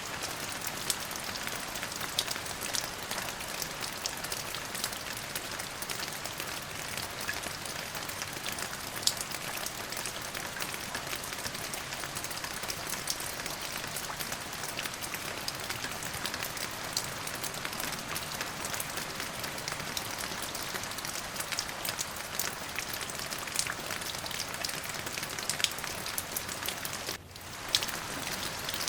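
Steady rain falling, a dense hiss with many sharp drop ticks, that dips briefly near the end before carrying on.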